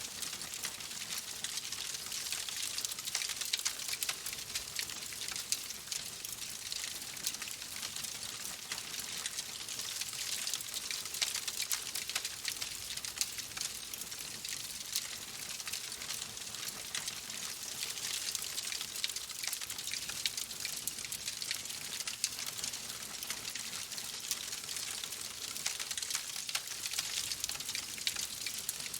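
Fire crackling in a fireplace: a steady hiss with many small, irregular pops and snaps.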